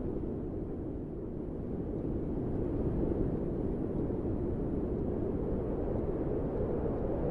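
Steady low rushing wind noise, swelling slightly, with no melody or beat.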